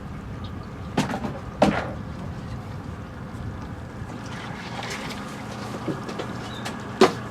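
Kayak paddle strokes in the water, with a couple of sharp splashes about a second in and another near the end, over a steady low rush of water and wind.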